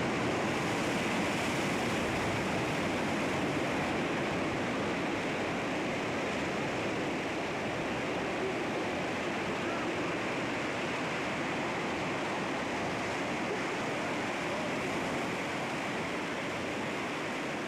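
Sea waves washing against rocks, a steady continuous rush of surf with no distinct single crashes.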